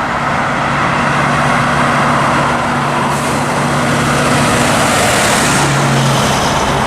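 Big-rig semi truck driving by: a steady diesel engine hum over tyre and road noise. The hum drops slightly in pitch and grows stronger about five and a half seconds in.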